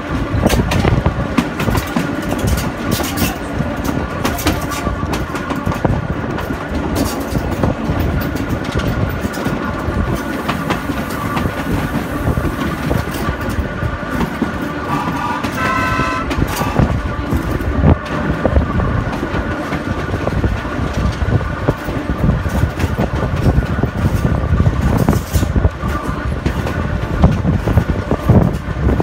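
Sóller railway's narrow-gauge electric train running along the track, heard from an open carriage window: a steady rumble and clatter of wheels on the rails with a thin steady whine above it. About halfway through, a brief high-pitched tone sounds over the running noise.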